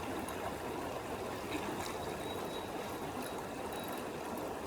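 A small creek flowing steadily, its water running and trickling.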